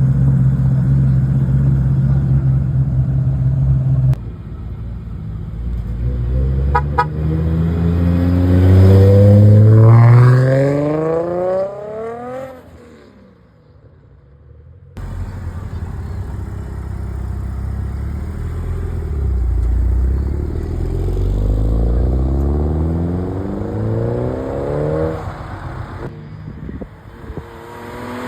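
Cars accelerating hard away, their engine notes climbing steeply in pitch. A steady engine drone comes first, then two long rising pulls and a short sharp rev near the end.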